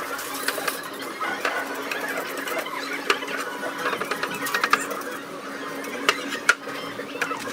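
A small motor running steadily with a constant hum, with irregular sharp clicks and scraping over it.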